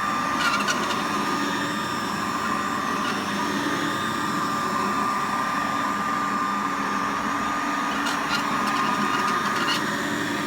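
1921 Hoover Model 102 upright vacuum cleaner running steadily, its motor giving a constant high whine over a rush of air, with a few faint ticks.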